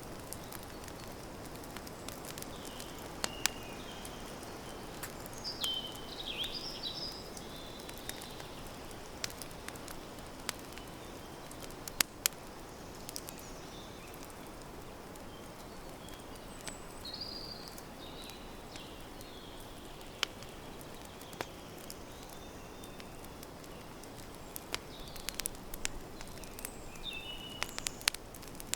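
Campfire crackling: a steady hiss with scattered sharp pops and snaps, coming more often near the end. A few short bird calls sound now and then over it.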